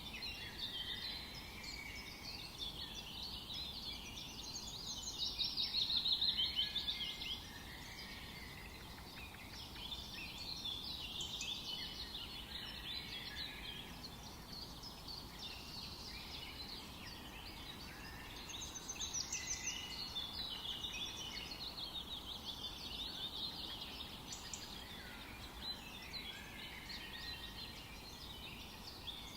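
A chorus of several songbirds singing and chirping at once in a forest, their short trills and chirps overlapping continuously over a faint background hiss. The chorus is loudest about six seconds in.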